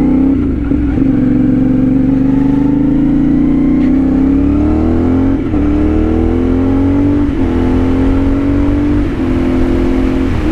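CFMOTO 450SS parallel-twin engine through an aftermarket slip-on exhaust, ridden under power, its note slowly climbing in pitch with short dips every couple of seconds. It has a low tone that pitches high, with a steady low rumble of wind and road underneath.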